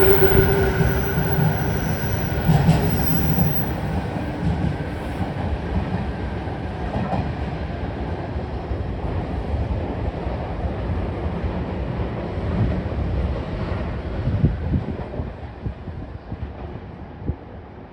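JR Kyushu 817 series electric train departing: a steady motor whine fades in the first second, then the rumble and clatter of the wheels on the rails slowly die away as the six-car train draws off.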